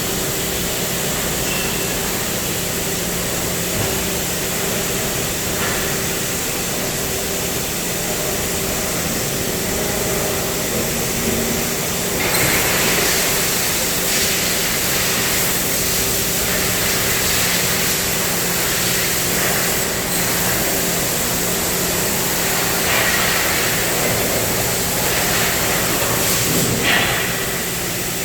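CNC gas and plasma cutting machine running with a steady hiss over a low, even hum. The hiss grows louder and brighter about twelve seconds in and drops back shortly before the end.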